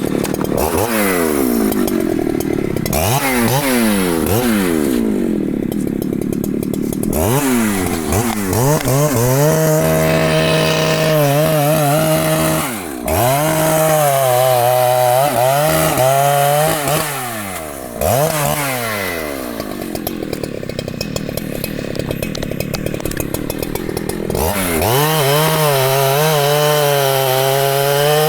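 Large Husqvarna two-stroke chainsaw revving up and down in several quick blips, then held at full throttle for stretches of a few seconds with brief dips in revs, cutting into rain tree wood.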